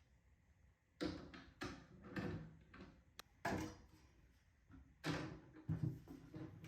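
Wooden furniture being handled and set in place: about six separate knocks and bumps, with a sharp click in the middle.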